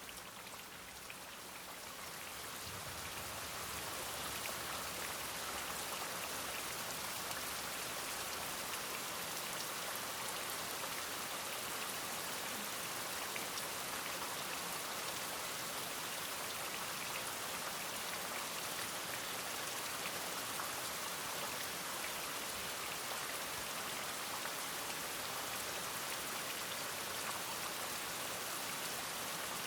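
Steady rain falling, a dense even patter of drops. It grows louder over the first few seconds, then holds steady.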